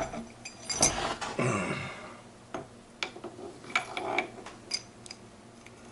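Steel gearbox parts clinking and tapping as first gear is handled and slid onto the shaft of a Ford 2000E gearbox. The taps are loudest about a second in, then sparser and fainter.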